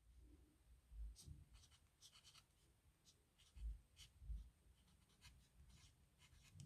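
Pen scratching on paper in short, irregular strokes of handwriting, faint, with a few soft low thumps.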